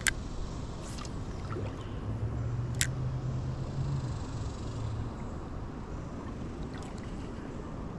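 Outdoor river ambience of breeze and moving water with a faint low drone, broken by a few sharp clicks. The loudest click comes about three seconds in.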